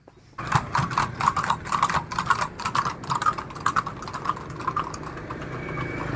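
Horse hoofbeats on hard ground, a rapid, irregular clatter of sharp clicks that starts suddenly about half a second in.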